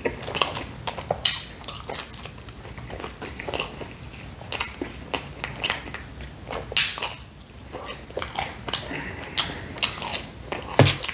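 Close-miked chewing and biting of pizza crust dipped in sauce, with irregular crisp crunching clicks.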